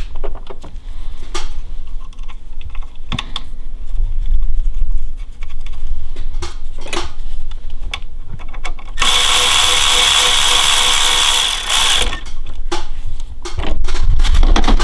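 Tools and metal engine parts clicking and knocking as they are handled, then a power tool runs steadily for about three seconds, starting about nine seconds in and stopping abruptly, followed by more clicks.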